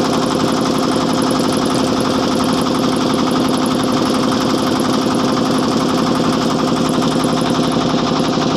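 A motorboat's engine running steadily at an even, rapid beat, heard close up from on board.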